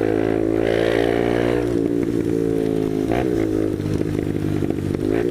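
Motorcycle engine running at steady riding revs, with a brief dip in the engine note about two seconds in.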